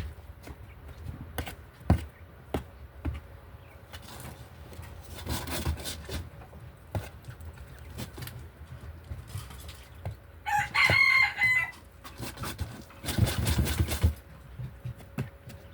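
A rooster crows once, loudly, about ten seconds in. Scattered clicks and taps and two short bursts of rustling come before and after it.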